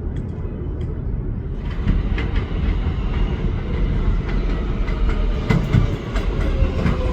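New York City Subway 7 train running through the station, its wheels knocking over the rail joints in a clickety-clack. The rumble swells from about a second and a half in as the train comes closer.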